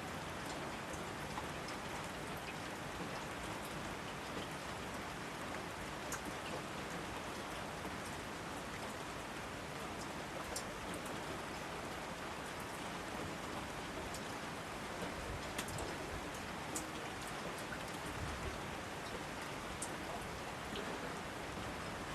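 Steady rain falling, an even hiss with scattered louder individual drops ticking close by.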